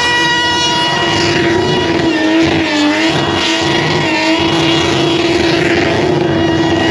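Car engine held at high, nearly constant revs, as in a burnout, with only slight dips in pitch around the middle and near the end.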